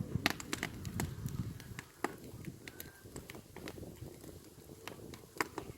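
Campfire burning: irregular wood crackles and pops over a soft low rumble, with one sharper snap near the end.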